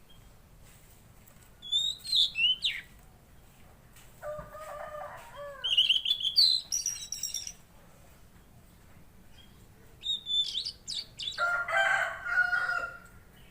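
Tledekan laut songbird singing in three spells of high, quickly sliding, twittering phrases, with lower-pitched calls mixed in at about four seconds and again near the end.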